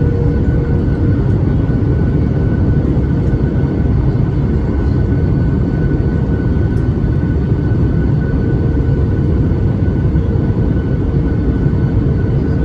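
Boeing 737 MAX 8 cabin noise over the wing: steady rumble of airflow and the CFM LEAP-1B engines, with a steady engine tone that fades away midway and comes back near the end.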